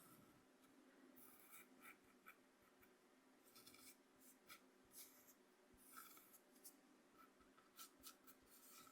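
Coarse corn meal scraping softly on a bamboo cutting board as shapes are drawn through it: faint, scattered scratchy strokes in small clusters.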